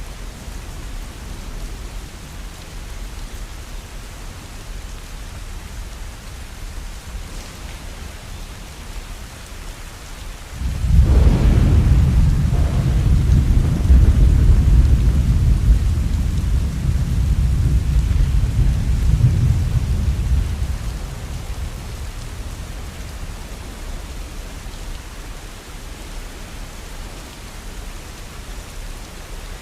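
Steady rain falling, with a long roll of thunder that breaks in suddenly about a third of the way through, rumbles deep and loud for about ten seconds, then dies away back to the rain.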